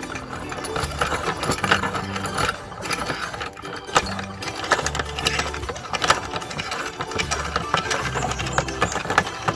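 Meat grinder machine running and crushing chicken eggs, with many sharp cracks and crackles from the shells breaking. Background music with a steady bass line plays underneath.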